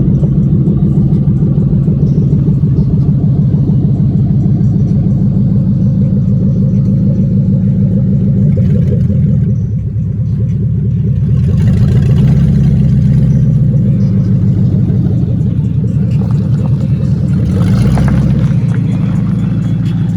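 Car engine running steadily and loudly, with the engine note dipping briefly about halfway through, then rising and getting louder as it is given gas, and surging again near the end.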